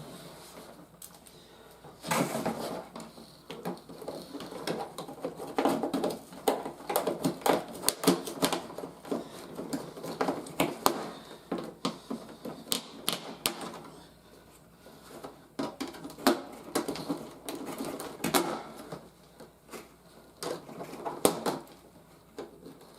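Irregular clicking and rustling of plastic packaging and toy parts as the ties holding a toy helicopter's pieces in its box are undone and the pieces are pulled free.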